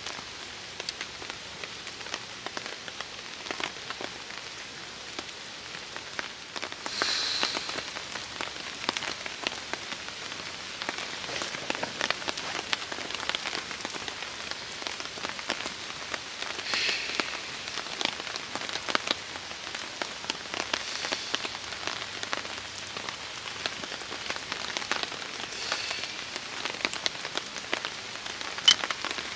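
Steady rain pattering on a tarp, thick with individual drip taps, swelling louder a few times, with one sharp click near the end.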